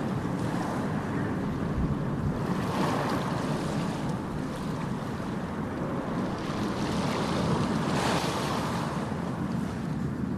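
Ocean surf: waves breaking and washing in over a steady low rumble, the hiss swelling twice, about five seconds apart.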